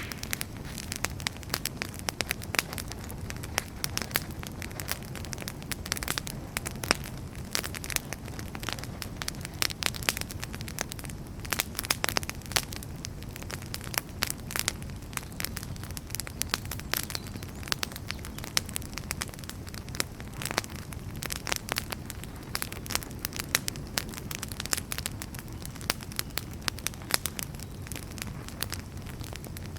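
Wood fire burning in a fireplace: dense, irregular crackling and sharp pops of burning firewood over a steady low rush of flames.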